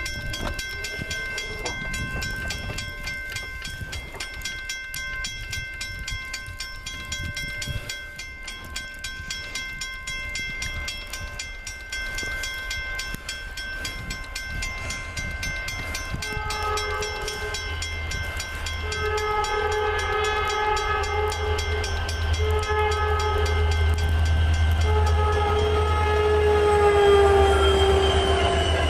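Freight train led by EMD SD40-2 diesel locomotives approaching, the low rumble of their two-stroke V16 engines building. From just past halfway the air horn sounds the grade-crossing pattern of long, long, short, long, and the last long blast drops in pitch as the locomotives pass.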